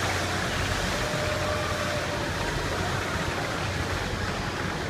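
Steady rushing hiss of water jetting from a broken fire hydrant, an even unbroken noise with no distinct beats.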